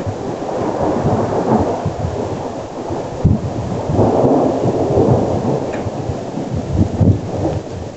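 Thunder from a close lightning strike rolling and rumbling over rain, swelling again about four seconds in, with a brief sharper crack near the middle.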